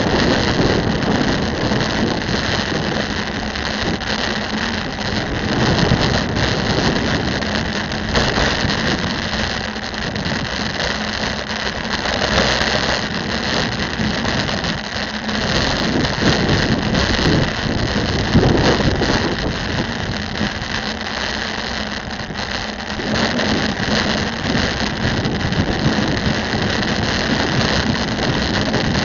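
Continuous road traffic noise with wind on the microphone, heard from a bicycle riding through city streets; it rises and falls gently, with a few brief louder swells.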